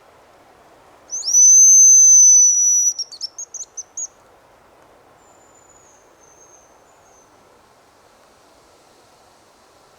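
Hazel grouse decoy whistle blown close by: one long, loud high whistle followed by a quick run of short notes, imitating the hazel grouse's song. About two seconds later a much fainter, falling high whistle answers.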